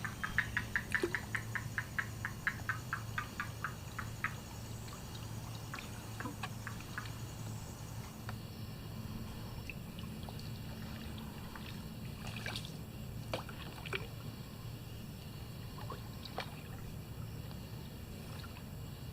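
Kayak paddle dipping and water trickling and dripping off the blades, with scattered small splashes. A quick run of sharp ticks, about six a second, fades out in the first few seconds.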